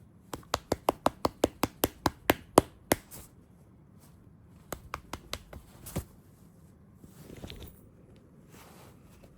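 A hand patting a cat's rump in quick light slaps: about a dozen in a burst lasting nearly three seconds, then after a pause a few more, ending with one louder slap.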